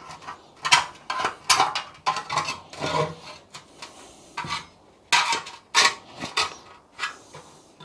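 A scraper blade being dragged over a steel motorcycle fuel tank in short, irregular strokes, lifting off heat-softened tank sealer.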